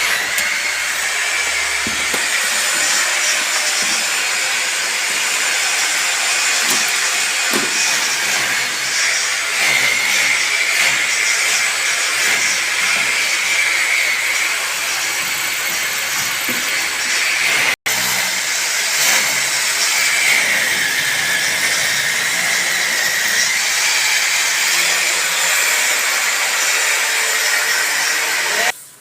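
A power tool running steadily: a loud hiss with a high whine whose pitch wavers. It cuts out for an instant about two-thirds through and stops abruptly near the end.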